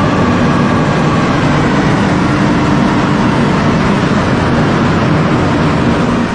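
Car engine running loud and steady at high speed under a dense, even roar of noise.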